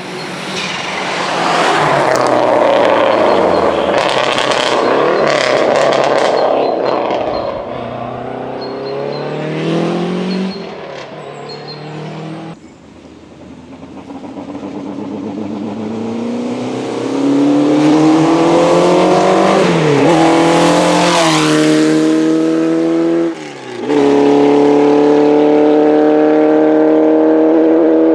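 Historic racing car engines at full throttle on a hillclimb. One car passes loudly with its engine note falling away; after a sudden break, another engine revs higher and higher, drops sharply twice as it changes up a gear, then holds a loud steady note.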